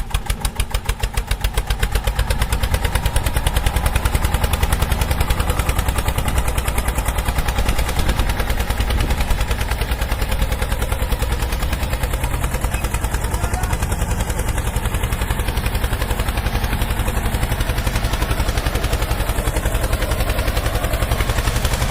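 Tractor diesel engine running hard with a fast, even chug. It picks up speed and grows louder over the first couple of seconds, then holds at high revs.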